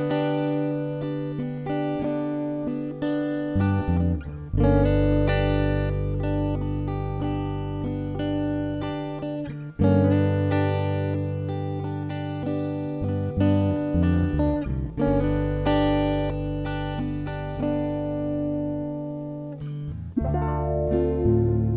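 Acoustic guitar strumming chords in a song's instrumental intro, the chords and bass notes changing every few seconds.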